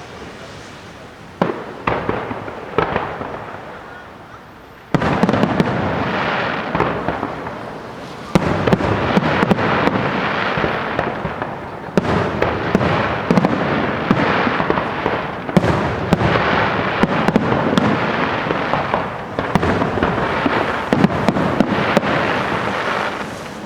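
Fireworks display: a few separate bangs, then from about five seconds in a dense, continuous barrage of bursting shells with sharp reports and crackle.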